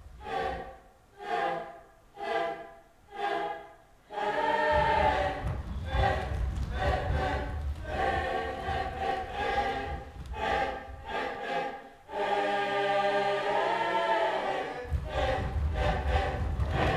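Several voices singing together as a group: short separate sung phrases for the first few seconds, then longer held lines, with a brief break about twelve seconds in.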